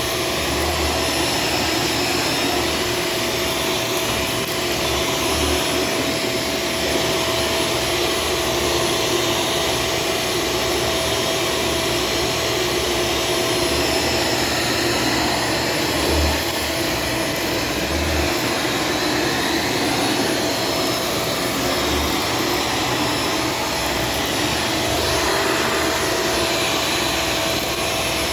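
Shark Stratos vacuum cleaner running steadily, a constant whine with a hum.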